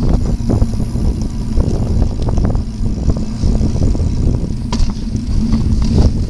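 Wind buffeting the microphone while riding a bicycle: a steady loud low rumble, with scattered short clicks and rattles.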